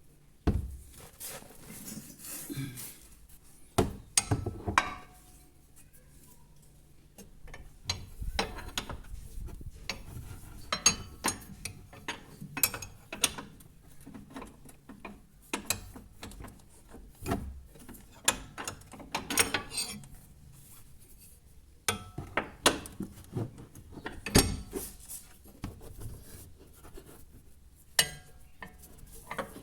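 Metal wrench clinking and scraping on a bolt under a car while the stabilizer-bar bushing bolt is tightened: irregular sharp clicks and short rubbing scrapes, with a couple of quieter pauses.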